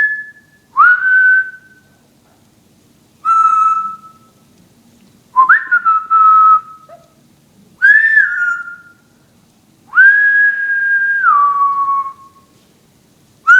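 Blue amazon parrot whistling a series of about six clear notes, each swooping up at the start and then held steady. The longest, near the end, lasts about two seconds and steps down to a lower pitch partway through.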